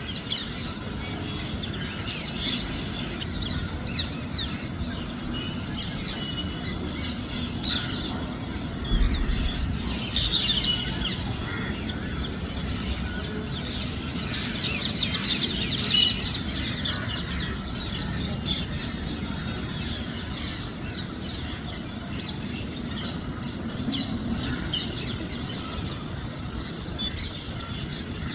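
A flock of parrots calling from a treetop: many short, overlapping squawks and chirps, busiest around the middle, over a steady high hiss and a low rumble, with one low thump about nine seconds in.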